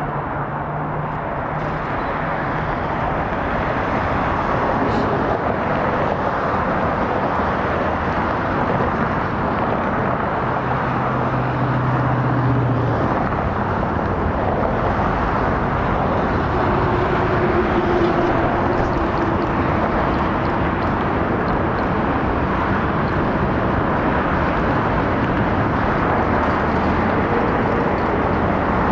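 Boeing 787-9 jet engines during landing and rollout: a continuous rushing jet noise that grows louder over the first few seconds and then holds steady.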